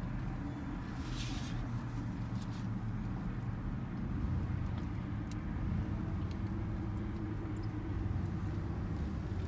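Pickup truck's engine running and tyres rolling at low speed, heard from inside the cab: a steady low hum.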